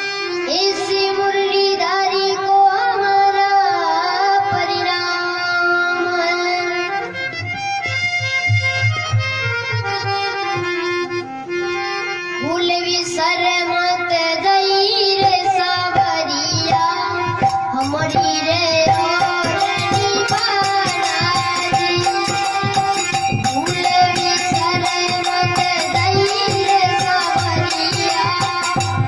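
Devotional folk bhajan music: a harmonium-like reed instrument holds steady notes while a child's voice sings with gliding ornaments. Drum strokes join, and a steady high ticking beat of small cymbals comes in during the second half.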